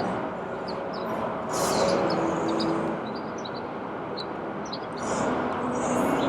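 Steady road traffic noise, with vehicles swelling past about one and a half seconds in and again near the end. Short faint high chirps sound above it.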